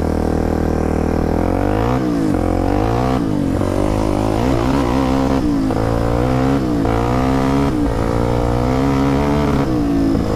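Polaris Predator quad's engine running under way, its pitch repeatedly rising and falling as the throttle is opened and closed.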